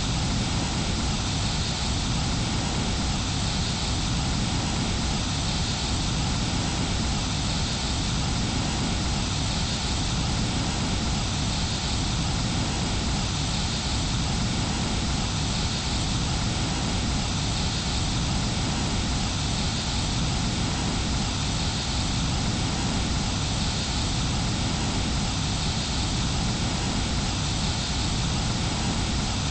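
Steady jet engine and rushing air noise of an Airbus A320, unchanging in pitch and level, with a faint hiss that swells about every two seconds.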